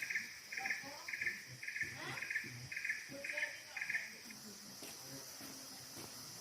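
Crickets chirping at night. One chirps in a steady pulse about twice a second and stops about two-thirds of the way through, over a continuous high-pitched insect trill.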